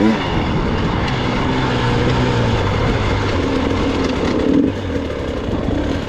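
Gas Gas EX 300 two-stroke enduro motorcycle running under way on the trail, its engine note steady and then easing off a little about four and a half seconds in.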